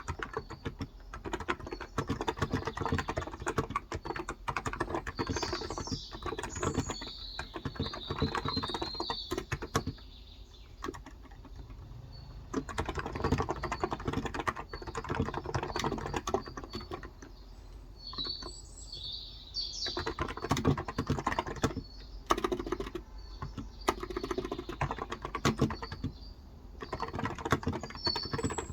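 Typing on a Cox Endeavor contactless (electrostatic capacitive) 35 g tenkeyless keyboard: runs of rapid keystrokes broken by short pauses. Small birds chirp in the background, several times.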